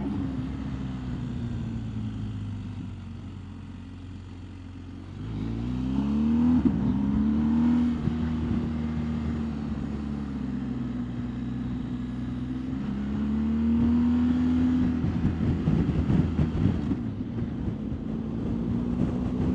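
BMW R1250GS boxer-twin engine under way: revs ease off over the first few seconds, then climb sharply about five seconds in and settle to a steady pull, with smaller rises later. Wind buffets the microphone, most roughly near the end.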